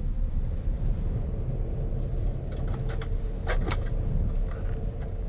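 Steady low rumble of air rushing past the cockpit of an Airbus A320 gliding with both engines out, with a faint steady tone underneath and a few sharp clicks about three and a half seconds in.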